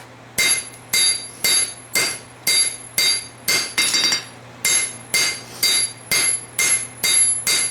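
Hand hammer striking hot steel on an anvil, about two blows a second with a short pause about four seconds in, each blow followed by a bright ring. The farrier-rasp blade is being drawn out for length.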